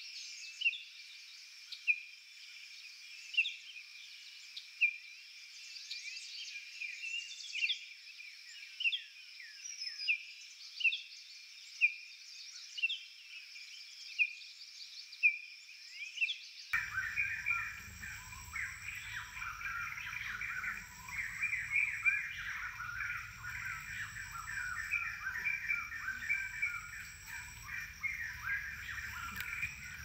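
Wild birds calling. For the first half, one bird repeats a short downward-slurred call about every 0.7 s over a steady high drone. About seventeen seconds in, this changes suddenly to a dense, busy chorus of many birds chattering at once, with a low rumble and a high tone pulsing about every second and a half.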